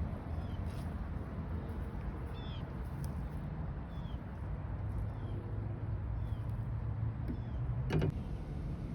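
A bird chirping in short, high, falling notes about once a second over a steady low rumble, with a single sharp click near the end.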